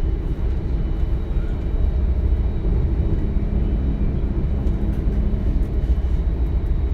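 A DB Class 425 electric multiple unit running, heard from inside the passenger cabin: a steady low rumble of wheels and running gear, with a few faint steady high tones over it.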